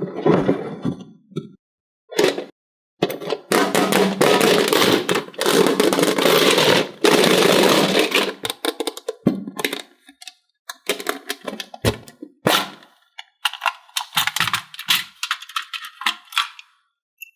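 Plastic toy packaging and pieces being handled: a couple of knocks, then about five seconds of dense crinkling and rustling, followed by a run of quick clicks and clatters.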